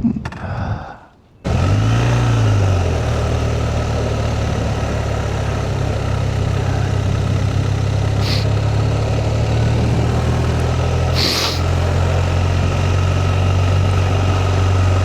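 Motorcycle engine starting: it catches suddenly, its revs flare up and drop back, and it then settles into a steady idle.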